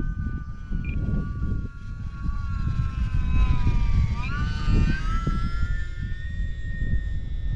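Electric RC plane's motor and propeller whining in flight, the pitch dipping about four seconds in and then climbing higher. Strong gusty wind rumbles on the microphone.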